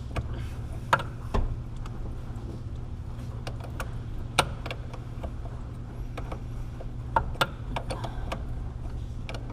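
Hand wrench working a steel power steering line fitting: a few sharp metal clicks and clinks, two of them close together near the end, over a steady low hum.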